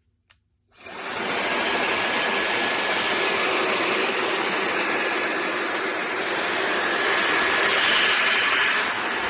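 PLAVOGUE high-speed hair dryer switched on about a second in, spinning up quickly to a steady rush of air with a faint high-pitched motor whine.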